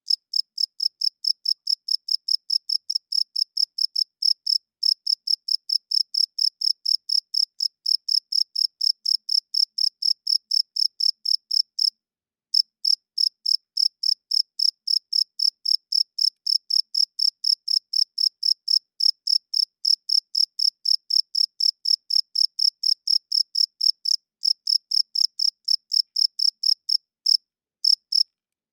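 Male crickets chirping by rubbing their wings together: a steady, high-pitched train of short chirps, about four a second, with a brief pause about twelve seconds in.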